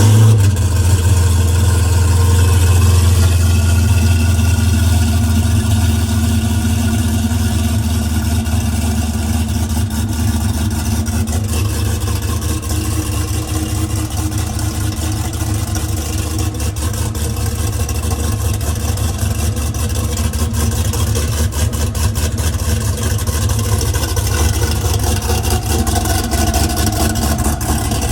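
Hennessey Venom F5 Roadster's twin-turbo V8 running at a steady cold-start high idle just after firing up, with a deep low hum.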